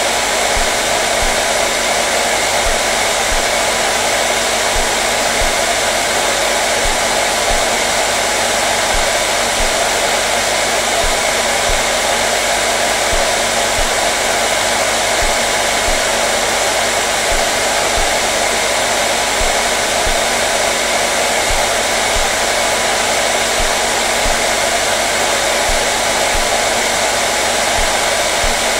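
Hair dryer running steadily at constant speed: an even blowing rush with a faint motor hum, unchanging throughout.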